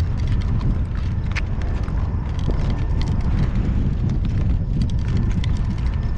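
Strong wind buffeting the microphone with a steady low rumble, over the light hoofbeats of a driving horse walking in harness.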